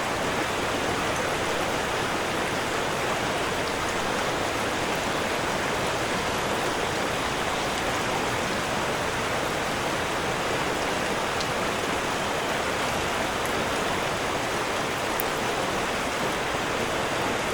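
Steady rushing water, an even hiss with no swells or pauses.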